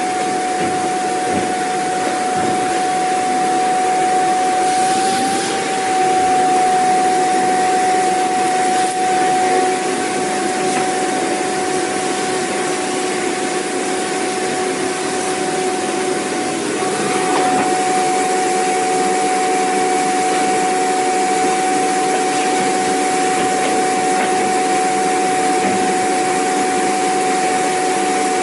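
Vacuum cleaner running continuously: a steady rushing noise with a constant whine from the motor. The pitch mix shifts slightly about two-thirds of the way through.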